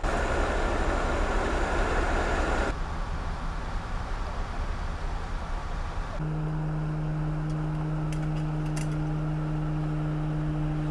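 Heavy recovery trucks' diesel engines working during a lift-and-pull recovery, with abrupt changes in the noise twice. In the second half a steady low engine drone holds one pitch, then falls away as the revs drop near the end.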